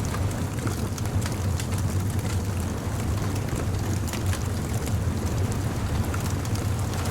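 Beach bonfire ambience: a fire crackling with scattered sharp pops over a steady low rumble.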